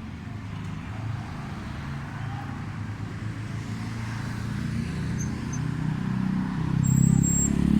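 Street traffic: a motor vehicle's engine running with a low hum, growing clearly louder near the end as it comes closer.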